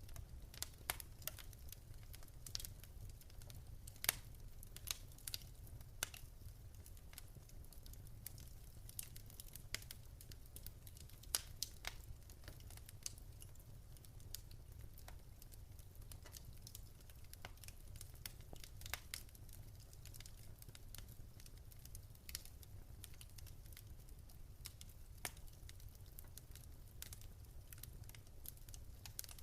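Wood fire in a fireplace crackling: irregular sharp pops and snaps over a faint low rumble, with the loudest pops about 4 and 11 seconds in.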